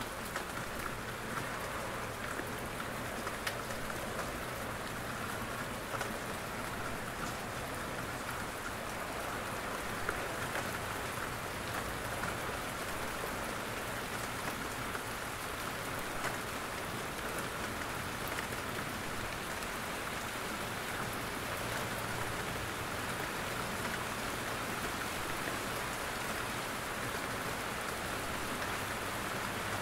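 Steady rain in a forest, with scattered single drops falling from the trees and ticking close by.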